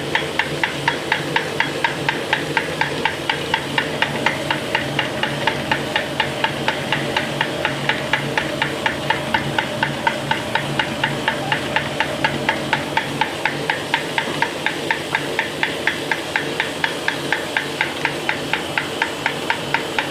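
Plastic drinking-straw making machine running steadily, a continuous mechanical hum with sharp, even clicks about four times a second.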